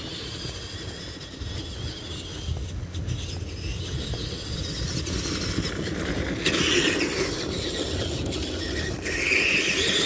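Tamiya TXT-2 RC monster truck's electric motor and gearbox whining as it drives, over a rough rumble of the tyres. The whine swells about six and a half seconds in and again near the end, rising in pitch as the truck speeds up.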